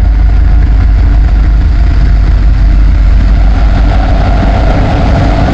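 A train passing close by: a loud, steady rumble.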